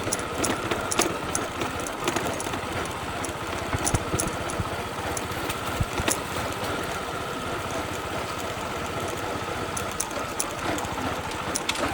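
Motorbike engine running steadily during a ride, with a steady high hum and scattered light clicks and rattles.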